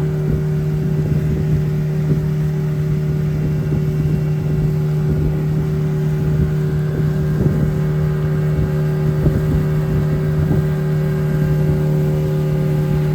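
Engine running at a steady speed: a constant low drone over rumbling noise.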